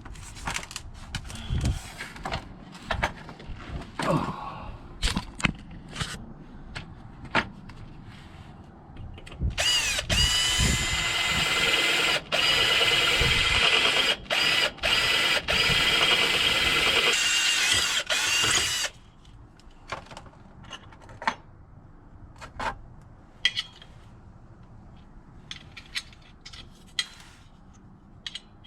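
Sharp clicks and knocks of tools and parts being handled, then a power drill runs with a steady whine for about nine seconds, stopping briefly a few times, before cutting off and giving way to more scattered clicks.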